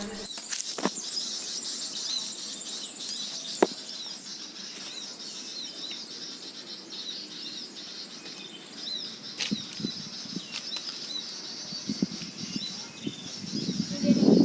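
Small birds chirping in a steady stream of short, high-pitched notes, with a few scattered clicks. A louder rustling starts near the end.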